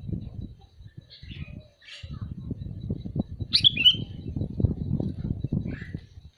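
Sooty-headed bulbul calling: one loud short call about three and a half seconds in, with a few fainter notes before and after. Under it runs a low rumbling noise.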